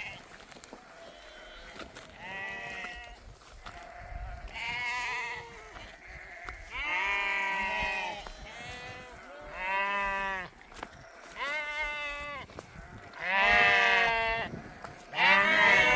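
Bleating livestock, likely sheep: a series of about seven quavering calls of about a second each, growing louder toward the end.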